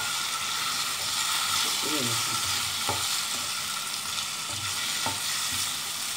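Pickle-stuffed green chillies sizzling steadily as they fry in hot oil in a frying pan, with a few light clicks against the pan.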